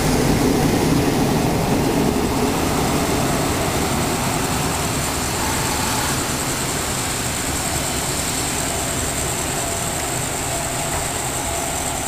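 Passenger train running past on the rails, its rumble slowly fading over the first few seconds as it clears the platform, leaving a steady engine hum. A steady high-pitched whine joins about halfway through.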